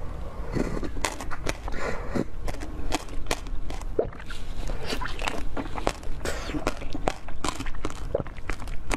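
Mouth sounds of chewing soft yellow jelly dotted with seeds: wet smacking and squishing with many quick, irregular clicks, several a second.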